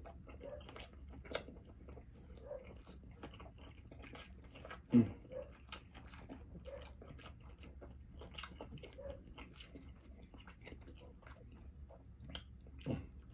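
Close-miked chewing of a mouthful of seafood boil: soft wet mouth clicks and smacks. One louder, short, low sound comes about five seconds in.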